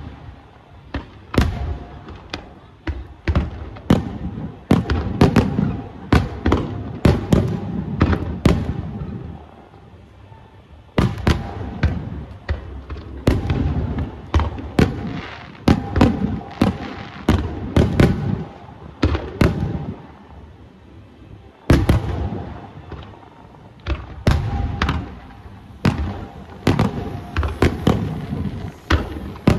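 Aerial fireworks bursting in rapid, irregular volleys of sharp bangs, each followed by a rumbling echo, with two short lulls about ten and twenty seconds in.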